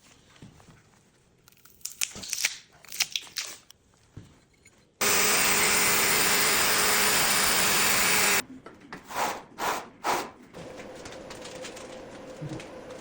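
A power tool runs loud and steady for about three and a half seconds, starting and stopping abruptly, between bursts of clattering knocks from the work; a quieter steady hum follows near the end.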